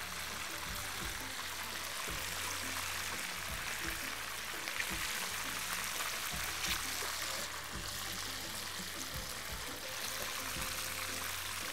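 Chicken pieces sizzling in hot oil in a frying pan as they brown to a golden colour, with a few sharp clinks of metal tongs against the pan. Background music plays under it.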